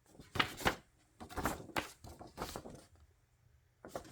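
Paper album inserts (lyric sheet, folded poster) being handled: a series of short rustles and soft taps of paper, with quiet gaps between.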